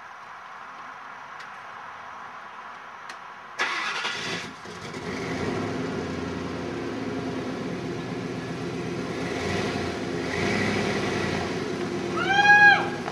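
Ford 5.4-litre Triton V8 in a 1998 F-150 cranked and catching about three and a half seconds in, then running steadily. Near the end a brief, loud high-pitched squeal rises and falls in pitch, the loudest sound here.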